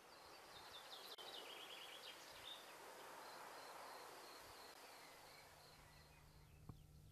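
Near silence with faint outdoor ambience: small birds calling in short, quick high chirps in the first few seconds, then fading to quiet, with one soft click near the end.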